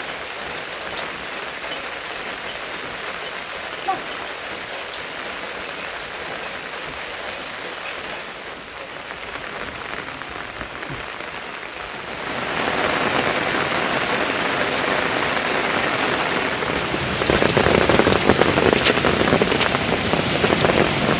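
Steady rainfall hissing, with a few scattered drop ticks. It gets heavier and louder about twelve seconds in, and louder again a few seconds later.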